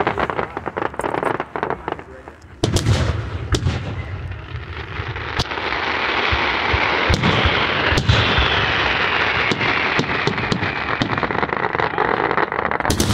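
Aerial fireworks display: a quick string of shell bursts, a short lull about two seconds in, then the bangs start again and build into a dense, continuous barrage for the second half.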